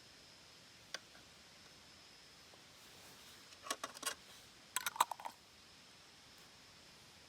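A single sharp click, then two quick clusters of light clicks and clinks from small hard objects being handled, over a faint steady high-pitched hum.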